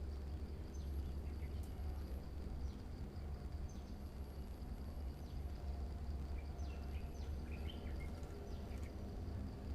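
Birds giving short, high, falling chirps, several in a quick cluster about seven to eight seconds in, over a steady low rumble and a faint steady high whine.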